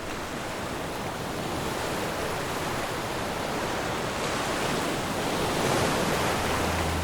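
Sea surf: waves washing onto the shore as a steady rush that fades in and swells about two-thirds of the way through. A low steady hum comes in near the end.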